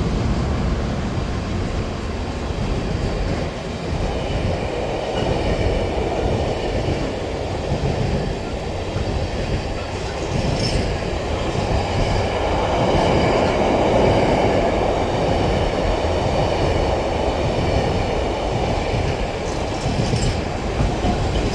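A freight train rolling steadily past, its wagon wheels clattering over the rail joints with a faint high squeal from the wheels.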